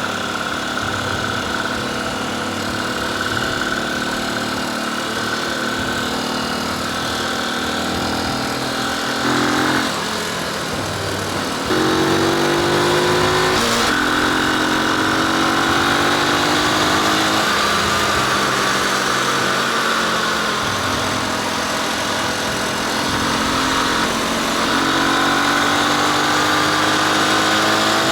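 Motorcycle engine under way, its pitch rising and falling as the rider accelerates and changes gear, louder from about twelve seconds in.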